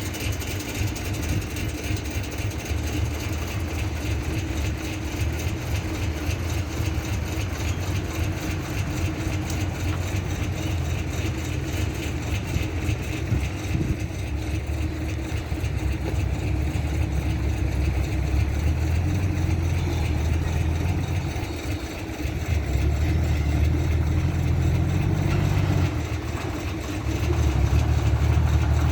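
Mitsubishi Fuso dump truck's 220 PS diesel engine running under a full load, a steady low drone. It grows louder in the second half and eases off briefly twice near the end.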